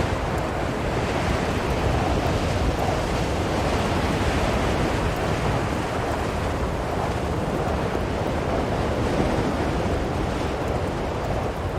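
Blizzard wind blowing steadily, a dense rushing noise that swells and eases gently every few seconds.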